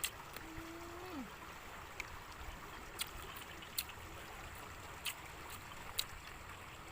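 A person eating: scattered sharp clicks of chewing and mouth sounds over a steady outdoor hiss, with a short hummed 'mm' about half a second in.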